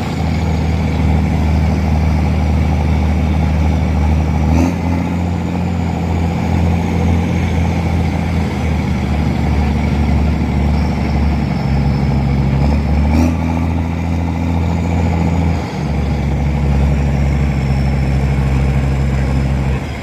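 Engine running steadily, its pitch holding level and shifting in steps a few times, with a sharp click twice.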